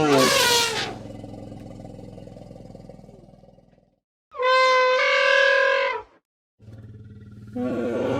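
An animal's roar ends in the first second and trails off into a fading low rumble. About four and a half seconds in comes a steady, horn-like animal call lasting under two seconds, and near the end the same roar starts again.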